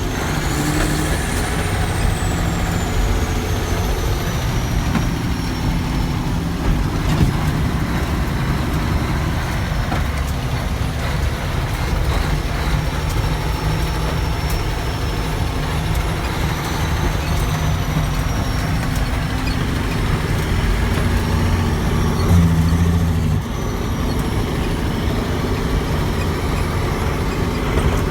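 Heavy diesel truck engine running loudly and steadily, with a faint high whine that rises and falls.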